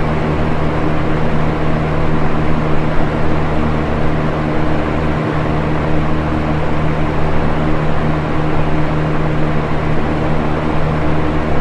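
Electric box fan running steadily: an even rush of moving air over a steady low motor hum.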